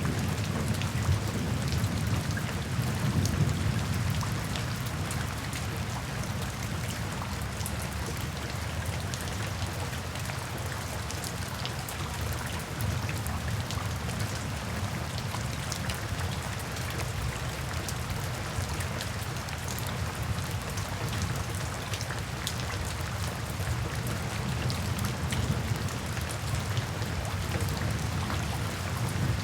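Steady rain falling, with scattered drops heard as sharp ticks. A low rumble of thunder dies away over the first few seconds.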